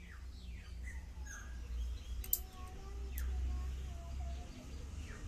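Birds chirping in short falling notes, with two sharp clicks a little before halfway and a steady low rumble underneath.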